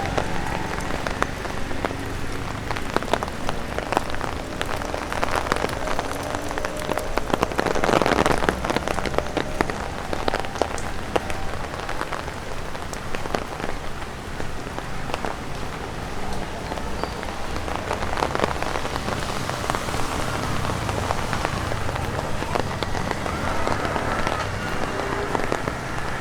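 Rain and drops falling from tree leaves tapping on an umbrella overhead: a dense, steady patter of small taps, with a heavier flurry of drops about eight seconds in.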